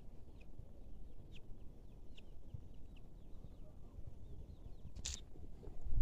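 Faint short bird chirps come every second or so over a steady low rumble. A brief rustling hiss comes about five seconds in, and a louder low thump right at the end.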